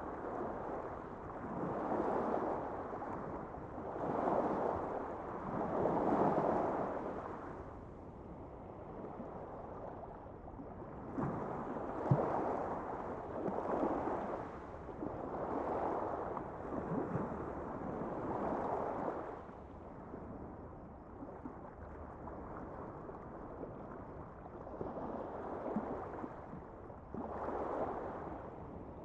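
Water washing in repeated swells, each surge rising and falling over a second or two, with a calmer stretch in the middle.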